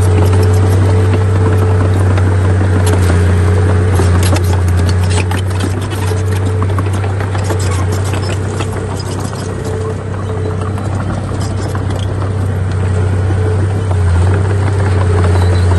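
Heavy diesel earthmoving machinery running steadily under load, with a deep engine drone and scattered metallic clanks and clicks, thickest a few seconds in.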